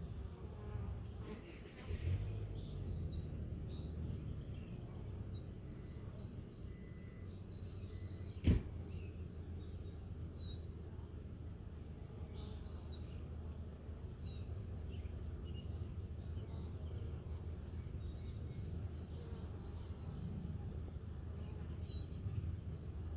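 Small birds chirping now and then over a steady low outdoor rumble, with one sharp knock about eight seconds in.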